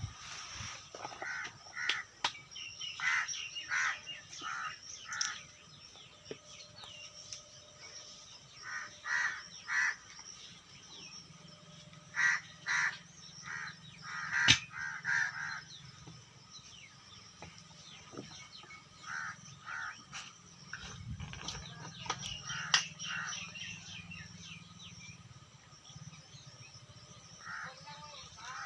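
Crows cawing repeatedly, in runs of three or four calls every few seconds.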